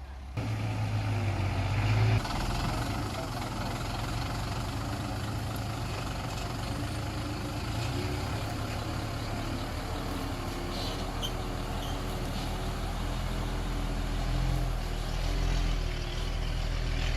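Diesel engine of a small earth-moving machine running steadily, louder for the first two seconds and then settling to an even level.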